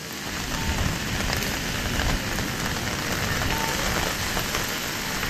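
Heavy rain pouring down onto the street in a sudden cloudburst, a steady dense hiss of rain.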